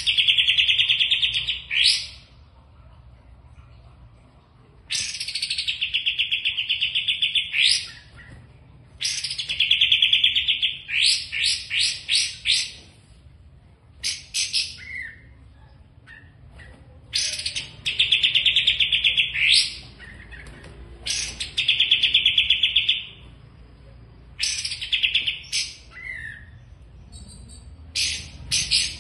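A songbird singing in repeated phrases, each a fast, buzzy trill lasting one to three seconds and often closing with a few quick rising notes, with short pauses between phrases.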